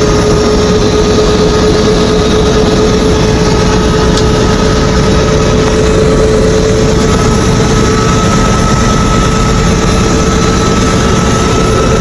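Helicopter engine and rotor noise: a loud, steady rumble with a steady whine running through it.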